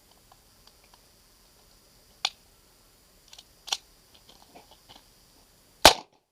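A few metallic clicks from the USFA Zip 22 .22 pistol being handled, then a single sharp .22 rimfire gunshot near the end.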